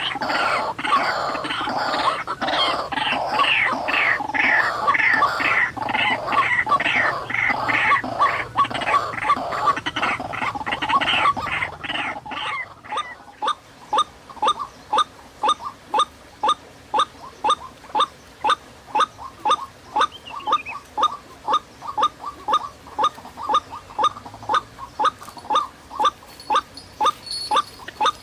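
White-breasted waterhen (ruak-ruak) calls repeated over and over: a loud, dense run of harsh calls for about the first twelve seconds, then a steadier, quieter series of sharp calls about two a second.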